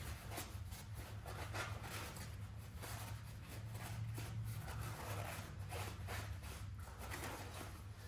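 Paper towels rubbing and wiping inside a dirty diesel fuel filter housing, in repeated short scrubbing strokes.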